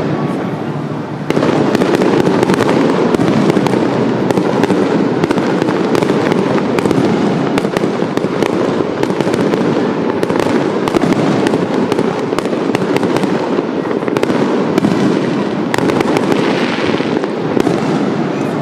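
Fireworks display: a dense, unbroken barrage of aerial shells bursting and crackling, which thickens sharply about a second in.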